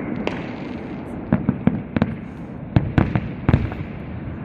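Fireworks display going off: a string of irregular sharp bangs and cracks, most of them bunched in the middle and latter part, over a steady background rumble.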